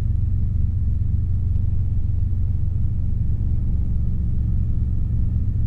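Robinson R22 helicopter in a hover, its engine and rotors heard from inside the cabin as a steady low rumble.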